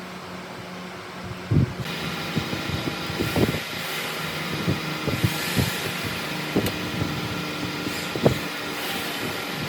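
A workshop power tool's motor starts about two seconds in and runs steadily over a low hum, with scattered knocks and taps.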